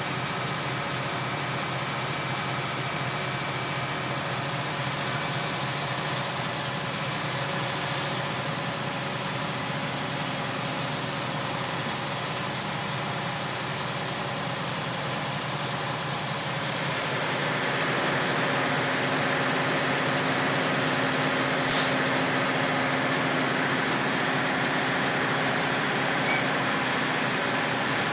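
Ready-mix concrete truck's engine running steadily, growing louder and fuller a little past halfway. Near the end there is one short sharp hiss of air, with fainter hisses earlier and just after it.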